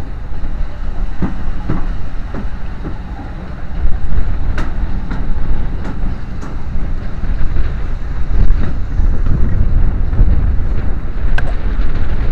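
Heritage railway train running along a station platform, heard from an open carriage window: a steady low rumble with wind buffeting the microphone and a few sharp clicks from the running gear.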